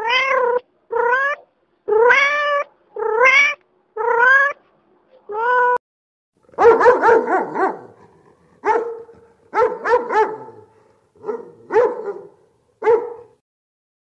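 Kitten meowing six times at an even pace, each meow rising in pitch and then holding. After a short pause comes a quicker run of about nine shorter, rougher animal calls.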